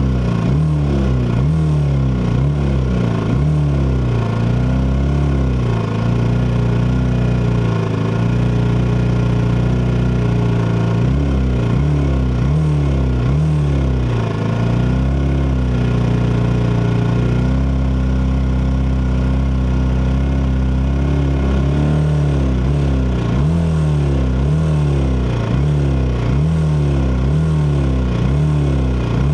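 Norton Manx single-cylinder racing motorcycle engine being blipped over and over, each rev rising and falling about once a second, with two stretches of a few seconds where the revs are held steady. Other race bikes' engines run underneath.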